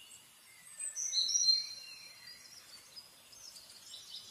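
Quiet outdoor ambience with birds calling: a clear, high whistled bird call about a second in, and faint scattered chirping later.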